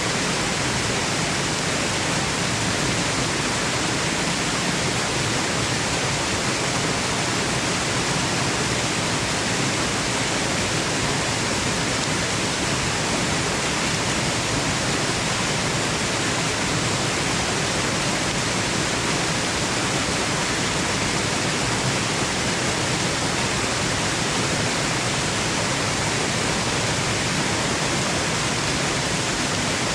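Waterfall rushing: a steady, even roar of falling water that never changes, used as white noise for sleep.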